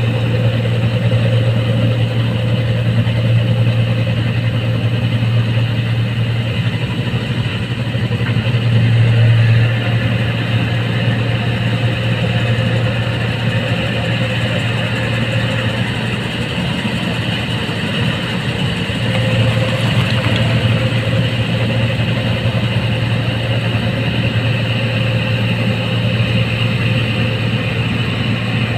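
Rice combine harvester engine running steadily, a continuous low hum that swells slightly twice.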